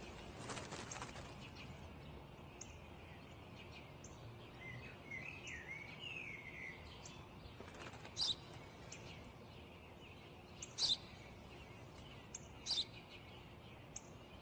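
Small birds chirping over a faint, steady outdoor background. A short warbling phrase comes about a third of the way in, then single high chirps every couple of seconds.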